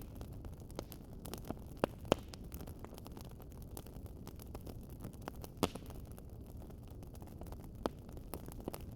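Wood fire crackling: a steady low rumble of flame with sharp, irregular pops and snaps, the loudest a pair about two seconds in and another in the middle.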